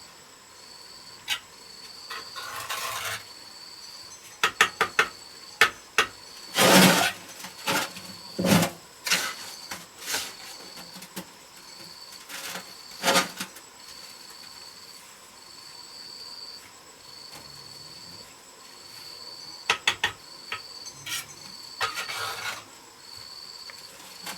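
Irregular scrapes, clicks and knocks of hand work, the loudest cluster a few seconds in, with an insect chirping in short, evenly spaced pulses behind them.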